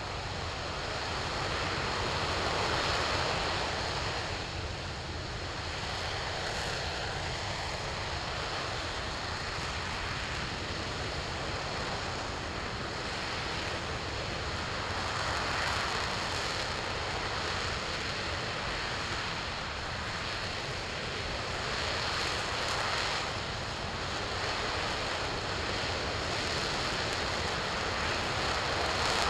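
RS-25 liquid-hydrogen/liquid-oxygen rocket engine firing on a test stand: a steady, continuous noise across all pitches that swells and eases slightly every few seconds.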